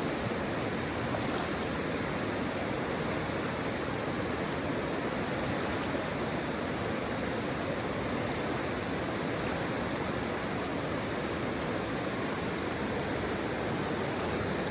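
Flowing river water blended with pink noise: a steady, even rushing with no changes.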